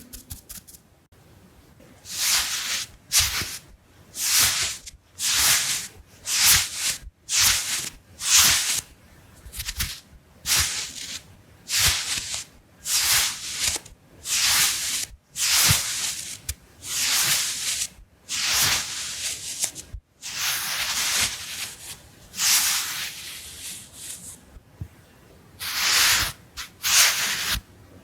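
Round makeup brush swept in repeated brushing strokes, a bristly hiss about once a second, starting about two seconds in.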